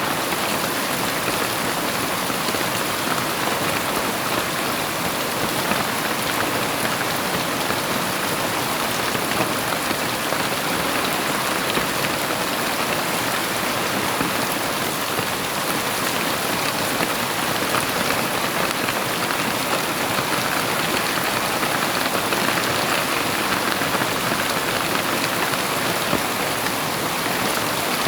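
Heavy rain falling steadily: a dense, even hiss of rain on surfaces, with no thunder.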